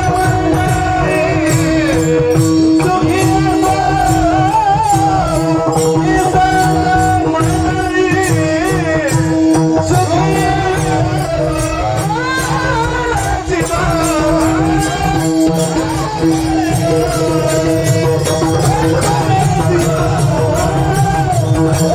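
Male voice singing a Warkari kirtan chal, a melodic setting of a quoted verse, over held accompanying notes. Rhythmic strokes of small hand cymbals run throughout.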